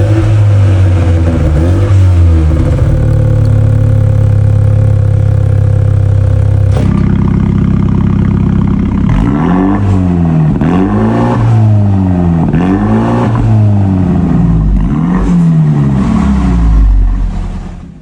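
Mini John Cooper Works F56 running through a JCW Pro exhaust: it idles with a steady note, then from about halfway is blipped through about five quick revs, each rising and falling, before fading out at the end.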